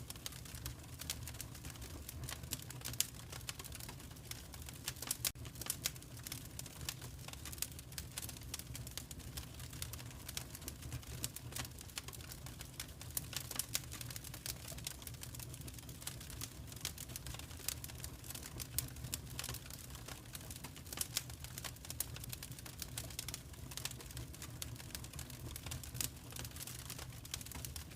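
Fireplace fire crackling: many small, irregular pops and snaps over a steady low rumble.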